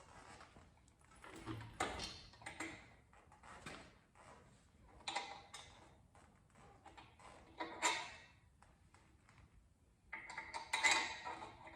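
Irregular metallic clinks and clatter of tools and engine parts being handled, in several separate bursts, the longest near the end.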